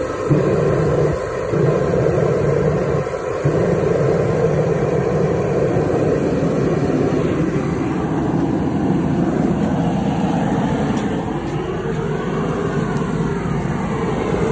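Forced-air propane heater, 40,000–60,000 BTU, firing up and running: its electric fan blows steadily with the propane burner lit, a lower steady tone coming in just after the start and holding.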